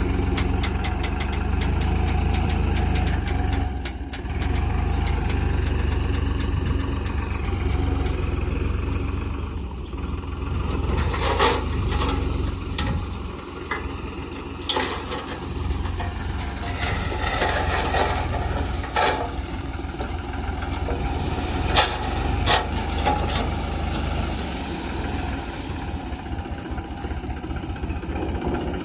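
Diesel earth-moving machinery running steadily, with several sharp metallic clanks and knocks in the second half, typical of a backhoe loader's bucket working soil.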